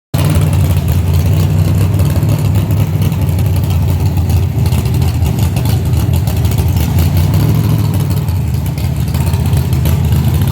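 A car engine running loudly and steadily, its sound sitting low in pitch with no clear rise or fall.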